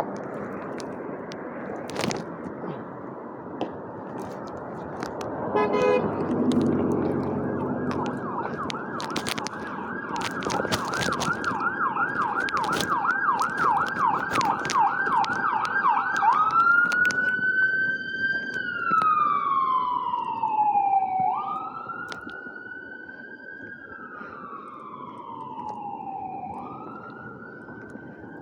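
An emergency vehicle siren over steady street noise. About six seconds in there is a short low horn blast. The siren then gives a fast yelp, sweeping up and down about two and a half times a second, and from about halfway through it changes to a slow wail that rises and falls every few seconds.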